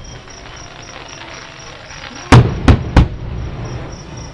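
Three fireworks shells bursting in quick succession a little over two seconds in, each a sharp bang heard from about a mile away, over a faint steady background.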